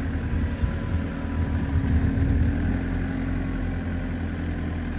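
Engine of a big snow-clearing machine running steadily, a low, even hum with no change in speed.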